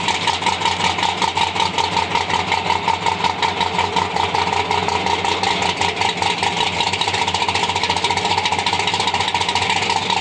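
Nitrous-equipped Chevy II's engine idling loudly, a steady rapid pulsing with no revving.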